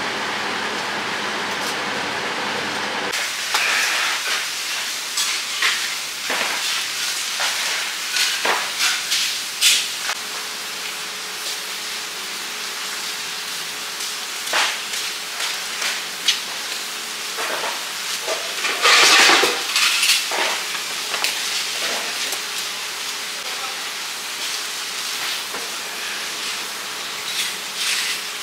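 Cooking sounds: food sizzling with a steady hiss, with irregular clinks and clatter of utensils against pans and dishes. The first few seconds hold a steadier noise before the sizzle and clatter begin.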